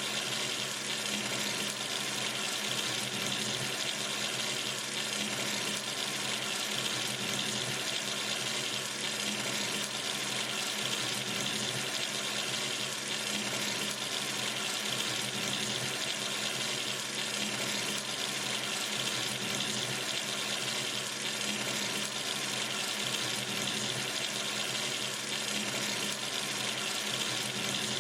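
Water running steadily from a sink tap, an even splashing hiss with no change.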